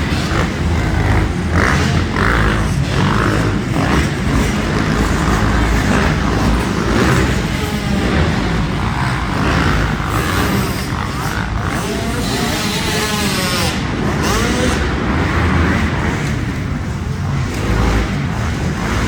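Motocross dirt bikes racing round a track, their engines revving up and falling away again and again as they take the jumps and corners.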